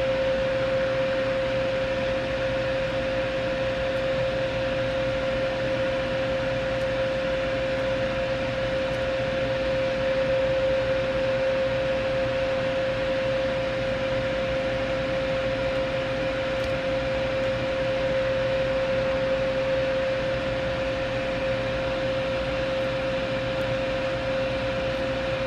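Steady whir of a small electric motor: a constant mid-pitched whine over an even hiss.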